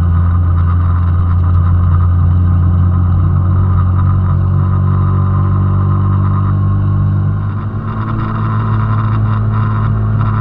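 Honda Benly 90S (CD90S) 90cc single-cylinder four-stroke engine running steadily under way. About seven and a half seconds in, the level dips briefly and the engine note shifts slightly in pitch.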